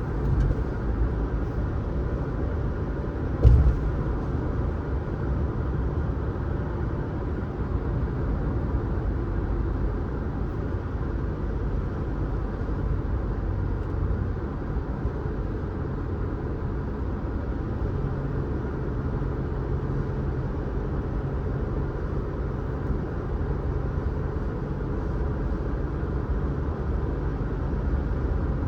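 Car driving along a road: a steady low rumble of tyres and engine, with a single thump about three and a half seconds in.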